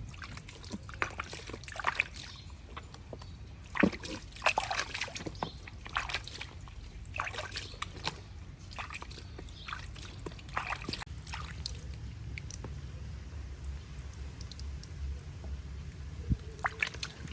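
Water sloshing and splashing in quick, irregular splashes, with trickling between them; busiest in the first ten seconds or so, then calmer.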